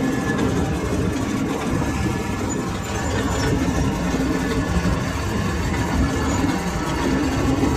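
Lathe machine running steadily, a continuous even mechanical drone.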